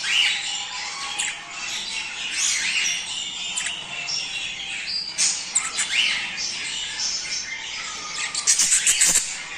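A flock of budgerigars chattering and warbling, many short chirps overlapping, with a quick run of sharp, loud chirps near the end. This is breeding-season chatter of the kind played to budgies to get them to mate.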